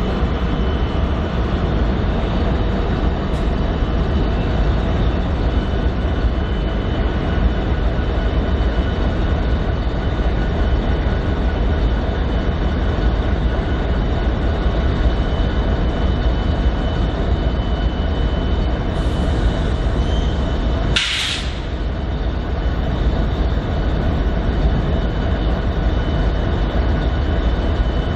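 A train running close by: a steady loud rumble of wheels and running gear with a few faint steady high ringing tones. A brief sharp high hiss or squeal cuts in about three quarters of the way through.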